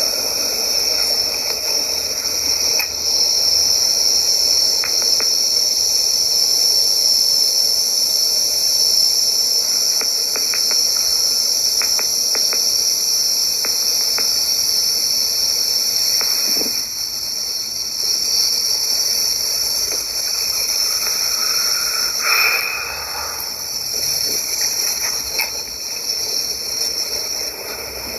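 A steady, high-pitched chorus of insects, with a few faint ticks partway through and a brief louder sound near the end.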